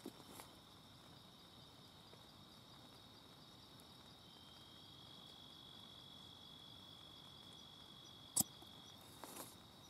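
Night insects trilling steadily in one continuous high-pitched tone, with a single sharp knock about eight seconds in and a couple of fainter taps near the start and end.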